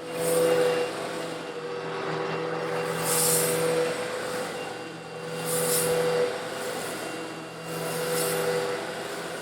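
Old Eureka vacuum cleaner running with a steady motor hum, sucking up coarse stone granules. About four swells of hissing rattle come every two to three seconds, as the granules are drawn in.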